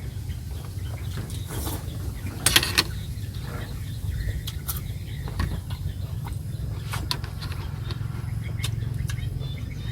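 Eating sounds: scattered small clicks, likely utensils against a plate, with one louder scrape or crunch about two and a half seconds in, over a steady low hum.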